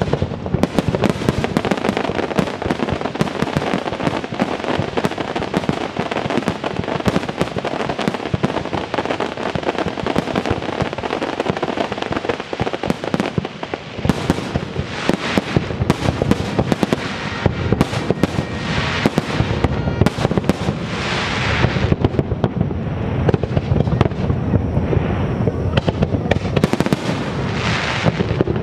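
Fireworks display: a dense, continuous run of bangs and crackles, with stretches of crackling hiss in the second half.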